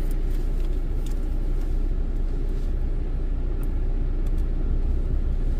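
A car idling, a steady low rumble heard from inside the cabin, with a few faint clicks.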